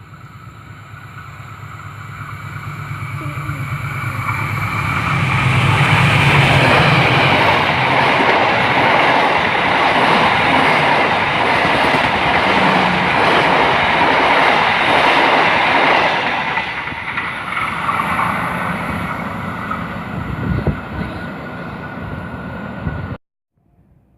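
A train passing close by: its rumble and wheel noise build over about six seconds, stay loud for about ten, then fade before cutting off suddenly near the end.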